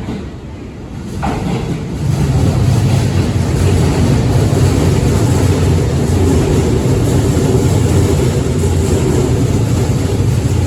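A Seibu 6000 series train, renewed with a Toshiba IGBT-VVVF inverter and permanent-magnet synchronous motors, running along the platform. A steady, loud deep rumble of running noise comes up sharply about two seconds in and holds.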